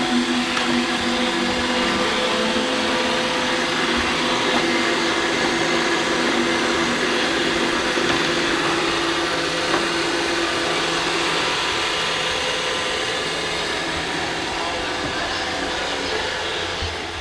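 iRobot Roomba robot vacuum running, a steady motor-and-brush whirr with a few hum tones that shift partway through.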